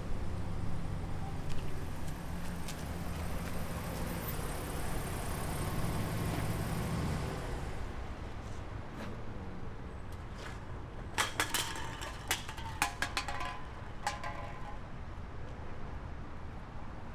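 A truck's engine running with a steady low hum, which dies away about seven or eight seconds in. A few seconds later there is a quick cluster of clicks and knocks.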